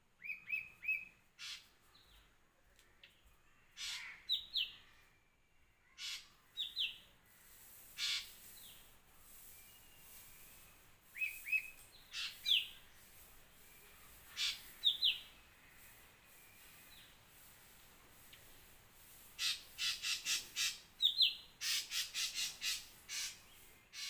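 Birds calling: short chirps in twos and threes, with short sharp notes scattered through and a quick run of them near the end.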